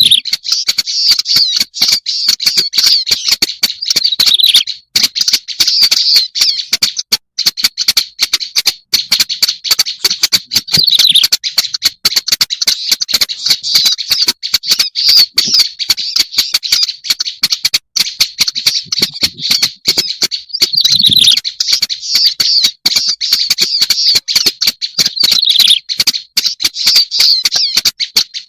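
Black-browed reed warbler song, a fast, unbroken chatter of harsh, scratchy notes, high-pitched and without pause. It is a recorded lure call used to attract the species.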